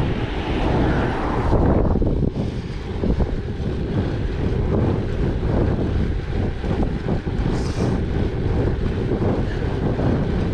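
Wind buffeting the microphone of a moving bicycle, over the steady rolling noise of its tyres, with a brief hiss rising about seven seconds in.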